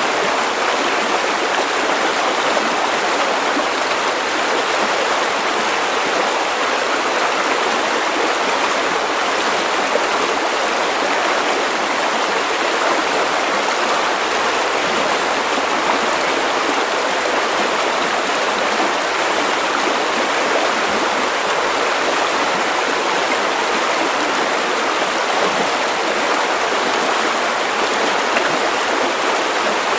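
River water running steadily over stones, an even rushing and babbling.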